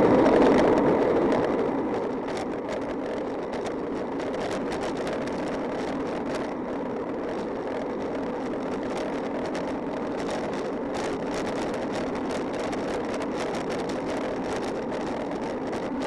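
Steady rushing noise of travel along a road, somewhat louder for the first couple of seconds and then even, with scattered faint ticks.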